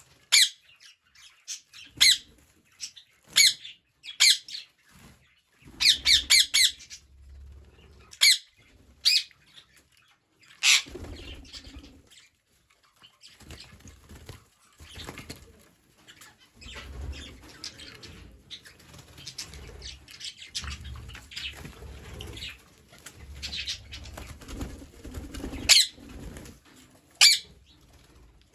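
Green parrots giving loud, short, shrill squawks, some singly and some in quick runs, with wing flapping and rustling through the middle and later part.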